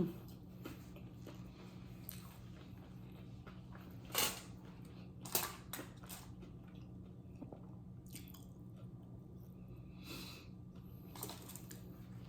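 A person chewing food close to the microphone, with a few sharp, brief crunches of tortilla chips between quieter chewing.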